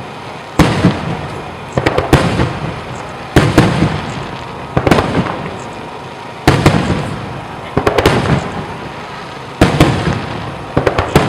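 Aerial fireworks shells bursting in a steady barrage. There is a sharp boom every second or so, some in quick doubles or crackling clusters, and each fades out in a rumbling echo.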